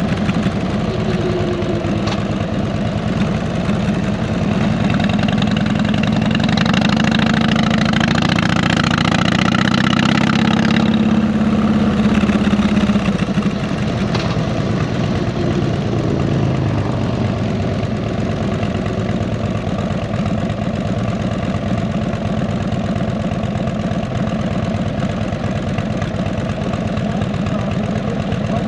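Harley-Davidson V-twin motorcycle engine running through fishtail mufflers with a steady low beat. It grows louder about six seconds in and eases back to a steady run a few seconds past the middle.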